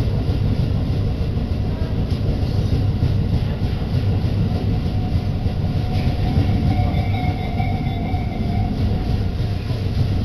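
Commuter train running, heard from inside the passenger car: a steady low rumble of wheels on the track, with a faint steady whine that comes in about six seconds in and fades a few seconds later.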